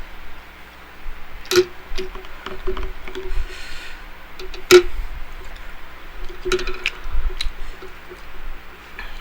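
Close-up eating sounds: wet chewing and mouth noises, broken by a few sharp clicks, the loudest about halfway through.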